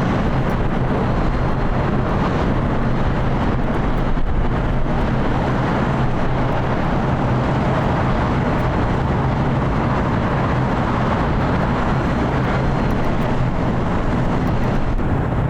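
Steady roar of a Boeing 787 Dreamliner's jet engines, a loud even rumble with a low hum that holds at one level throughout.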